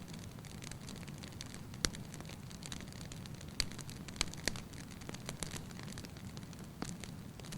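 Wood fire burning in a fireplace: a steady low rumble of flame with scattered sharp crackles and pops from the firewood, a few louder snaps about two, three and a half and four and a half seconds in.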